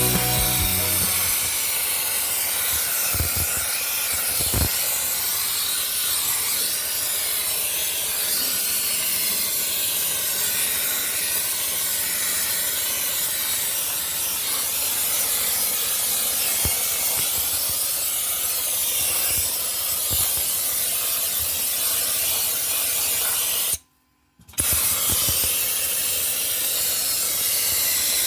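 Dry-ice blasting nozzle hissing steadily as compressed air and dry-ice pellets blast the engine bay. The hiss breaks off for under a second about three-quarters of the way through, then resumes.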